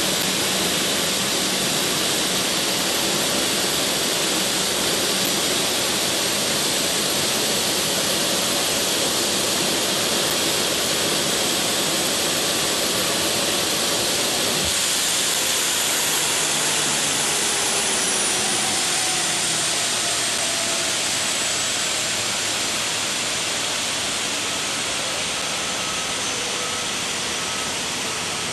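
Jet aircraft engines running with a loud, steady rushing noise. After a cut about halfway through, a faint whine falls slowly in pitch and the noise gradually eases toward the end.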